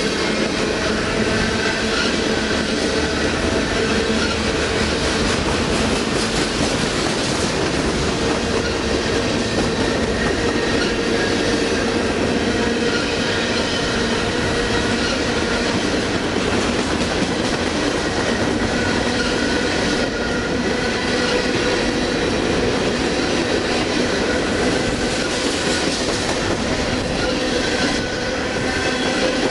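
Freight train of container cars rolling past close by: a steady rumble and clatter of steel wheels on the rails, with a faint steady wheel squeal running through it.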